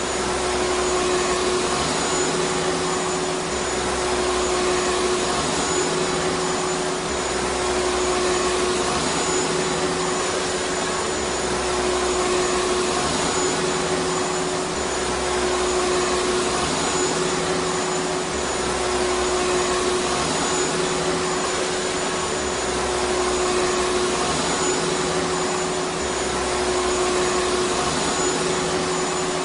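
Vacuum cleaner running continuously: a steady motor whine over a dense rushing hiss, with a faint low rumble that swells and fades every couple of seconds.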